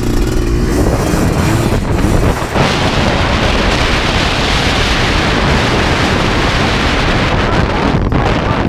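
Strong wind buffeting the microphone: a loud, rough rushing noise with a heavy low rumble, growing stronger about two and a half seconds in.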